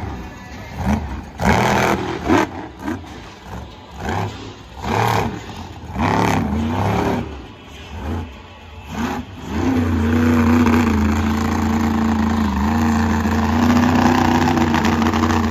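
Monster truck engine revving hard in a series of short bursts, then held at a steady, high-pitched drone from about ten seconds in.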